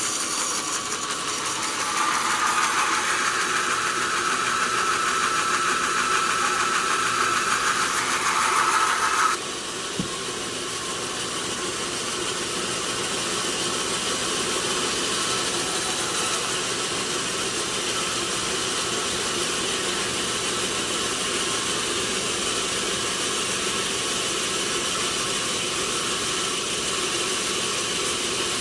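Sawmill saw machinery running steadily, with a louder high whine from about two seconds in to about nine seconds in, as of the blade cutting through teak, which stops suddenly; a single click follows and the machine keeps running.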